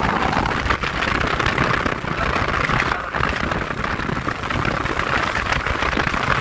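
Yamaha R15 V4's single-cylinder engine running as the motorcycle is ridden, under a steady rushing noise.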